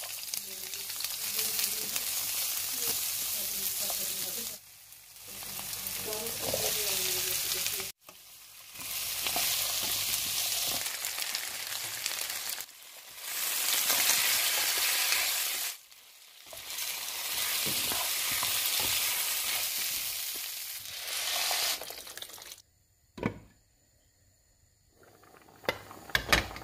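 Diced potatoes and onions sizzling as they fry in oil in a frying pan, heard in several takes that cut off abruptly. Near the end the sizzle stops and a few sharp clicks are heard.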